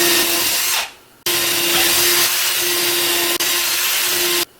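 Power drill running at a steady speed, drilling pilot holes into MDF: it stops about a second in, starts again a moment later, and cuts off suddenly near the end.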